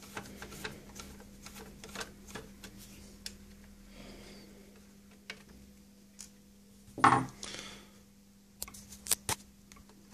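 Small clicks and metal clatter of a computer power supply's casing and parts being handled during disassembly, with a louder knock about seven seconds in and a quick run of sharp clicks shortly after.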